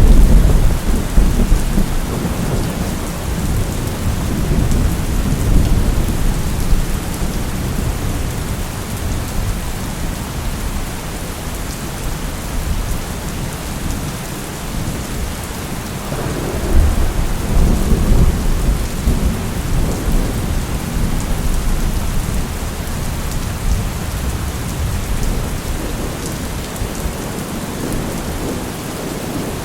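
Steady rain with rolling thunder. A loud thunderclap's deep rumble rolls away over the first several seconds, and a second long rumble of thunder swells about 16 seconds in and fades slowly.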